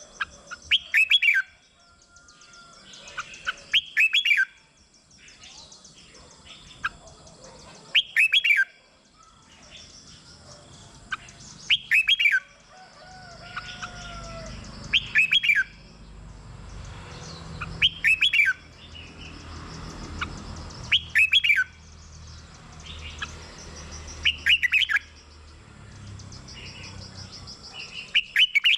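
Red-whiskered bulbul singing short, loud whistled phrases, repeated about every three to four seconds. A faint low rumble runs underneath through the middle.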